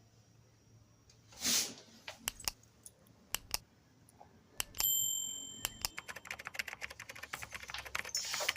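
Small metal clipper-blade parts clicking and clinking on a hard surface. About five seconds in comes one bright clink that rings on for a moment, then a quickening run of small rapid clicks.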